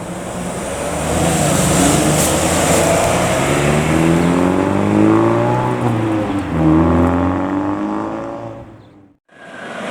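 Fire ladder truck's diesel engine pulling away under load, its pitch climbing, dropping as it changes gear, then climbing again, before fading out about nine seconds in.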